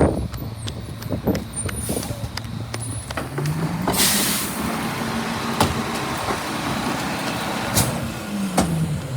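Garbage truck engine running, rising from idle to a higher steady speed about three seconds in and dropping back near the end, with a short burst of air hiss about four seconds in and scattered clicks and knocks.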